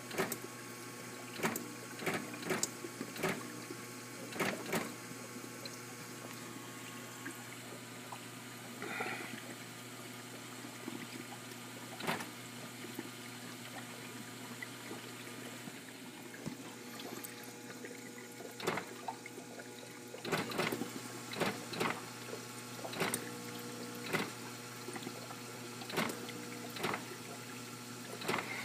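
KitchenAid ice maker clicking again and again at irregular intervals, often in quick clusters, over a steady low hum. The clicking is an unexplained fault that the owner is trying to diagnose.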